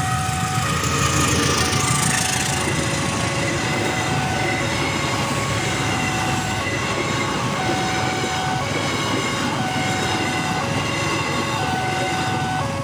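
A passenger train passing close by a level crossing: the CC201 diesel-electric locomotive goes by with a swell of noise about one to two seconds in, then the coaches rumble past steadily. Over this the crossing's electronic warning alarm keeps repeating a pattern of short tones at a few alternating pitches.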